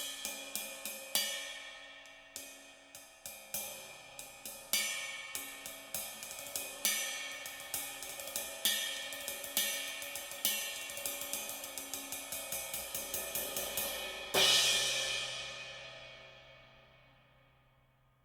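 Brass cymbals (Avus Genext series) struck in a steady pattern of about four strokes a second, with louder accented hits every second or two. About fourteen seconds in, one loud crash is left to ring out and fade away.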